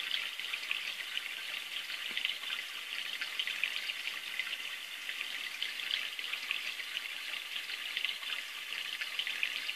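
Steady trickling, bubbling water with a fine crackle.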